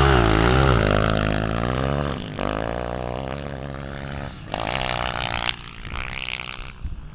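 250 cc off-road race engines revving and passing, their pitch swinging up and down with the throttle. They are loudest at the start and drop away after about two seconds, with another engine revving hard around the five-second mark before it fades.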